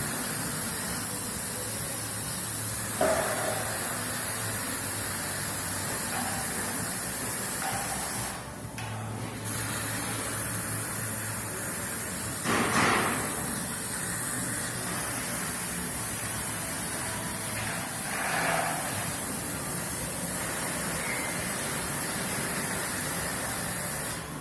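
Cummins 6LTAA8.9 inline-six turbodiesel running steadily with a low hum and a constant hiss, swelling louder briefly three times.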